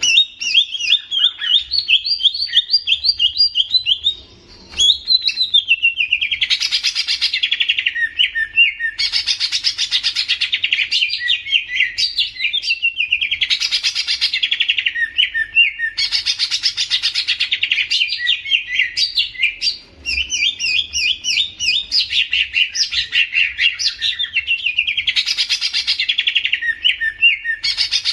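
Cucak ijo (greater green leafbird) singing: a loud, fast chattering song of rapid high notes in phrases that repeat every few seconds, with two brief pauses.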